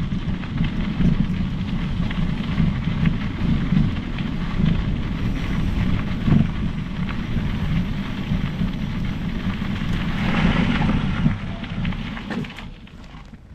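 Steady wind rumble on the microphone and tyre noise from a mountain bike riding along a trail. A brighter hiss rises briefly near the end, then the noise drops away as the bike slows.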